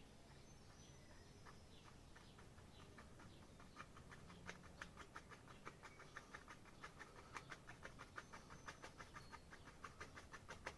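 Faint, quick dabbing of a loaded paintbrush tapping oil paint onto a canvas, about four taps a second. The taps start a few seconds in and grow more frequent toward the end.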